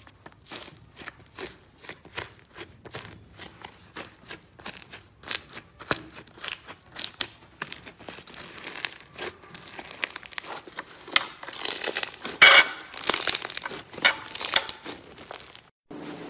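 Slime being squeezed and pressed, making a run of sharp crackles and pops a few times a second that grow louder and denser after about ten seconds.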